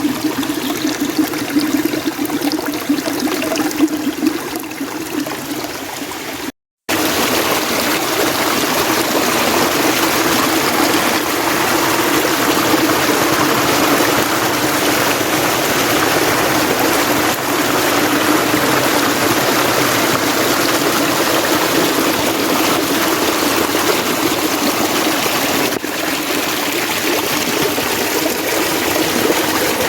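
Mountain stream water rushing and trickling steadily over rocks. About six and a half seconds in it drops out for a moment, then comes back louder and fuller.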